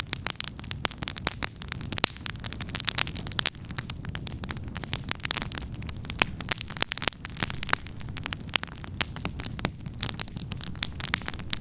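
Wood campfire crackling: a dense, irregular run of sharp snaps and pops over a low steady rumble.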